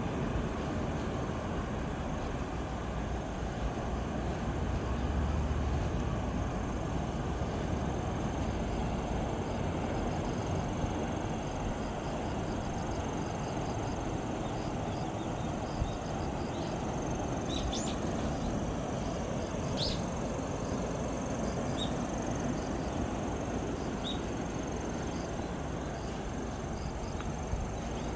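Steady rushing of surf and wind, with a constant high insect trill over it and a few short bird chirps in the second half.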